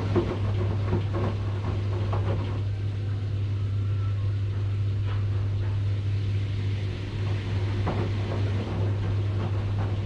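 Washing machine running: a steady low hum under irregular knocks and swishes from the turning drum. The knocking is busy for the first couple of seconds, eases off through the middle, and picks up again near the end.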